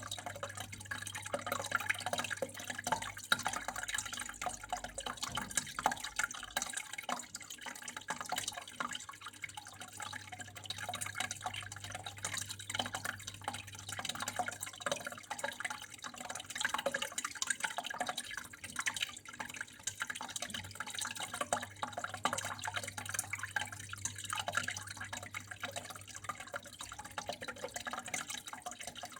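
Water running steadily and splashing, with a dense patter of small drips and trickles, over a low steady hum.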